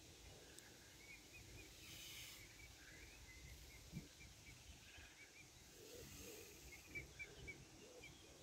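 Faint, quick series of short, high bird peeps, several a second, over near-quiet pond ambience.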